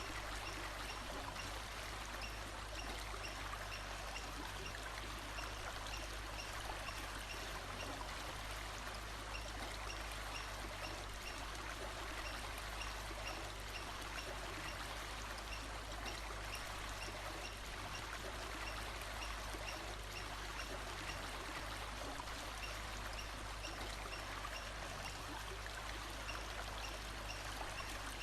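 Steady rush of flowing stream water. Faint, short, high chirps repeat at an even pace through much of it.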